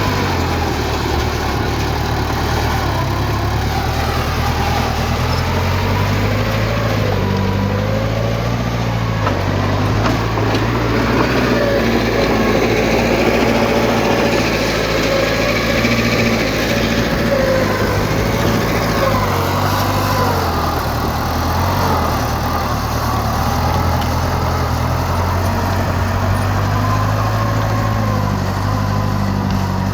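Heavy earthmoving machinery running: a diesel engine's steady low drone, with a wavering higher tone over it.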